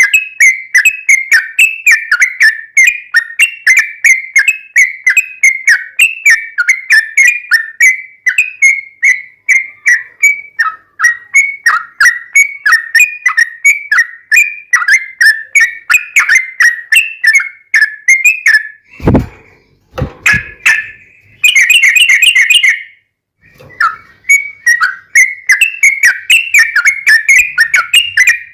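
Yellow-vented bulbul (trucukan) singing a long, rapid run of short, chattering whistled notes. About two-thirds through, a sharp thump and a brief break interrupt it, then a louder flurry of notes, and the song resumes.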